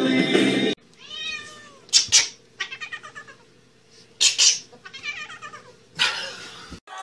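A domestic cat meowing and yowling several times in a row, with drawn-out calls that bend up and down in pitch, broken by a few short, harsh, noisy outbursts.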